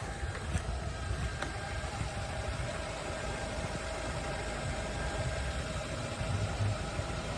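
Steady low rumble of a vehicle engine idling, with a faint steady tone above it and a couple of light clicks about half a second and a second and a half in.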